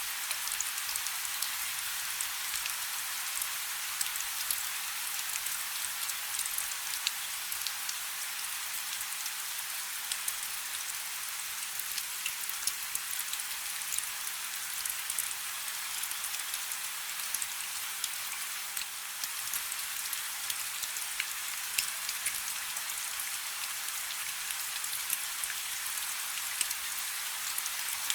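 Steady rain falling on a river: a dense, even hiss of rainfall with many sharp individual drop ticks scattered through it.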